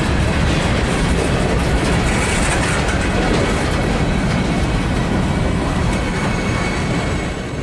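Freight train's cars rolling past at close range, covered hoppers, boxcars and tank cars, with steel wheels running on the rails in a steady, heavy rumble.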